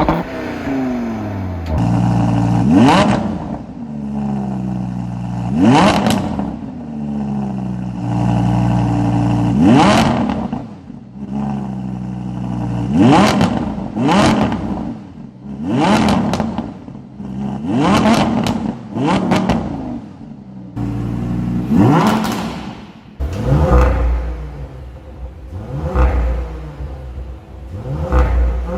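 A car engine revved repeatedly while parked: about a dozen quick rev blips, each rising sharply in pitch and dropping back to a steady idle between them. The sound changes character about two seconds in and again past twenty seconds, with a deeper rumble in the later blips, which may be a different car.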